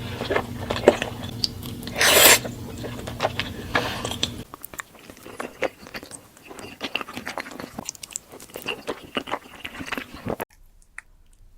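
Close-miked eating of creamy pasta: wet chewing and mouth sounds with many small clicks, and a louder burst about two seconds in. A low background hum stops about four and a half seconds in, and the sound drops much quieter near the end.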